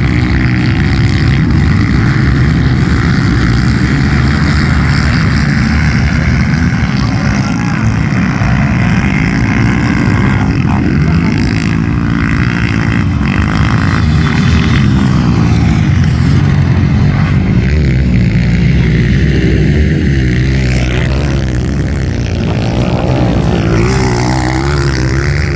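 An engine running steadily at a loud, even pitch.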